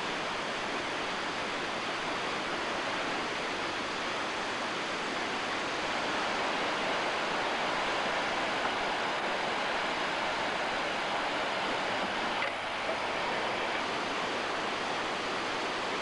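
Whitewater of a mountain waterfall rushing steadily, a little louder in the middle.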